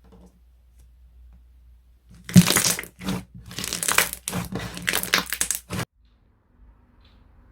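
Crunchy slime being squeezed and pressed by hand, making a dense run of crackling crunches. It starts about two seconds in, lasts about three and a half seconds and stops abruptly.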